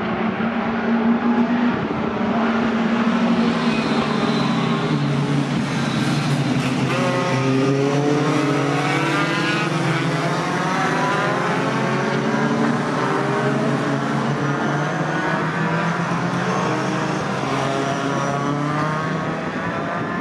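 Several racing pickup trucks' engines running together as a pack goes by, the overlapping engine notes falling and rising in pitch.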